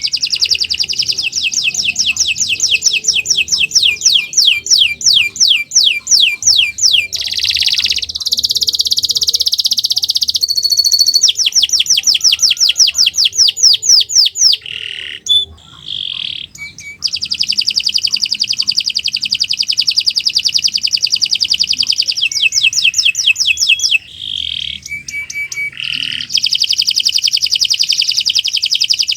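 Domestic canary singing a long, nearly unbroken song of fast repeated trills and buzzy rolls, high-pitched, with short breaks about halfway through and again near the end.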